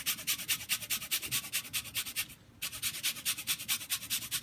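Lemon peel being rasped on a zester: quick scraping strokes, about seven a second, with a short break about halfway.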